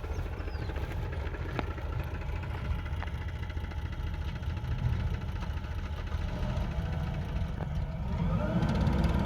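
Heavy diesel engine of a tractor or backhoe loader running at a steady idle, growing louder with a rising tone about eight seconds in.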